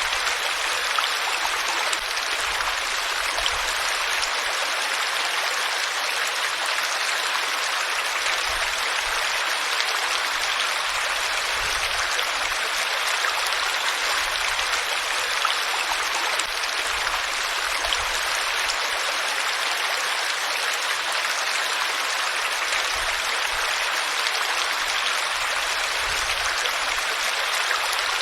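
Steady, unbroken rush of flowing water, like a stream running over rocks.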